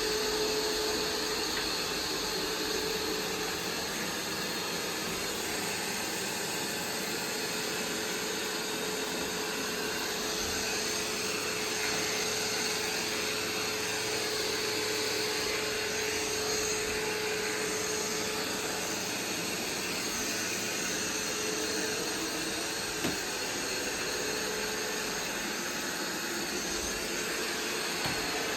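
iRobot Roomba 505 robot vacuum running steadily, a constant whirring hum with a held tone, and two small knocks in the last few seconds.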